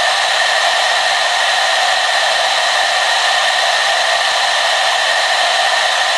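Hair dryer running steadily, a constant whooshing rush of air with a fixed whine from its fan motor.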